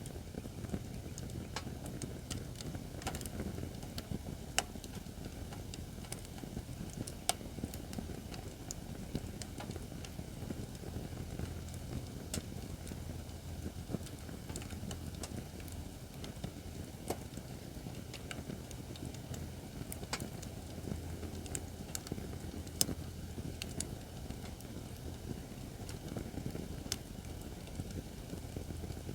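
Acacia firewood burning in a fire pit stand: irregular sharp pops and crackles over a steady low rumble.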